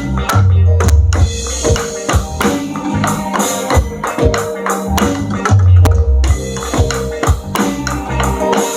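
Drum kit played in a steady beat, with repeated drum and cymbal strikes over pitched backing music with a bass line.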